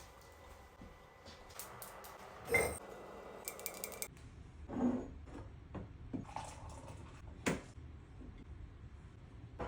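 Containers and food items being handled in a kitchen: a few scattered knocks and clatters, the clearest about two and a half, five and seven and a half seconds in.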